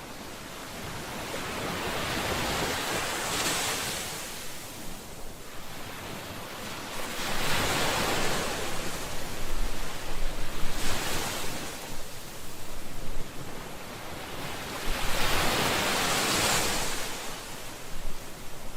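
Ocean waves breaking and washing up on a shore, in slow surges that swell and fall back every few seconds.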